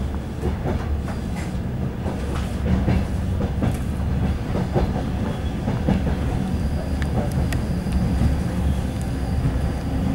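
Suburban passenger train rolling along the line, heard from inside the carriage: a steady rumble of the wheels with scattered clicks and clatter over the rails.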